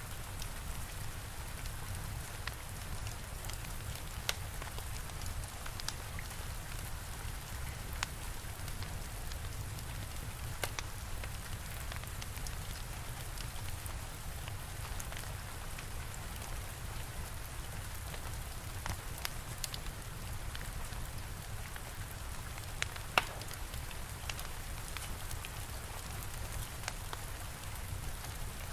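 Steady rain with a low rumble underneath and the sharp pops of a crackling fire scattered through it, the loudest pop about two-thirds of the way through.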